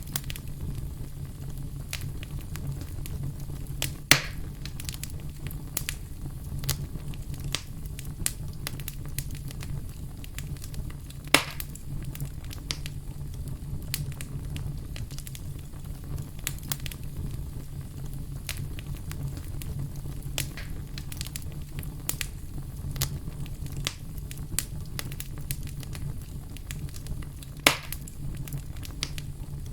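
Wood fire crackling in a fireplace: a steady low rumble of flame under frequent small crackles, with three louder pops spread out over the stretch.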